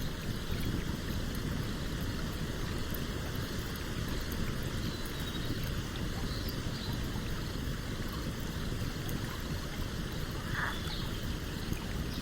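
A stream flowing steadily, with a campfire crackling over it in faint, scattered snaps.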